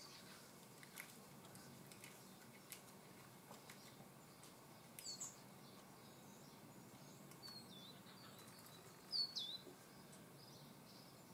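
Near silence with faint bird chirps: a pair of short chirps about five seconds in, a few softer ones a little later, and a louder cluster of chirps about nine seconds in, with a few faint ticks in between.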